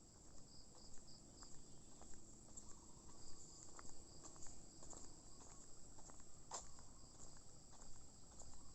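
Faint steady high-pitched chorus of crickets or other insects, with a pulsing note underneath. Scattered light ticks, and one sharper click about six and a half seconds in.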